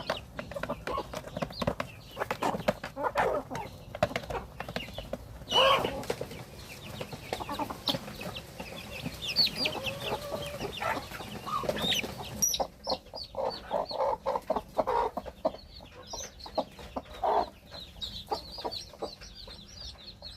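Native desi chickens clucking, among many short clicks and knocks. Near the end a run of quick, repeated high chirps sounds.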